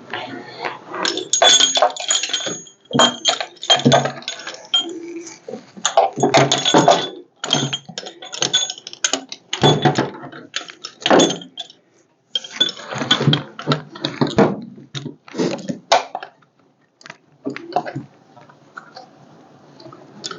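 Metal tools and hardware clinking and clanking in irregular bursts, some hits ringing briefly, with a quieter pause about three quarters of the way through.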